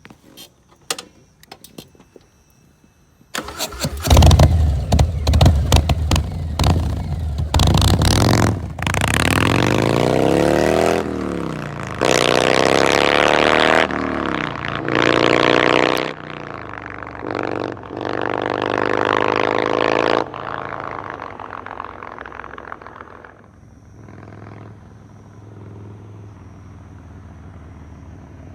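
Harley-Davidson V-twin motorcycle engine starting about three seconds in after a few faint clicks, then revved hard over and over, its exhaust note rising and falling in a string of blips. After about twenty seconds it settles to a much quieter steady idle.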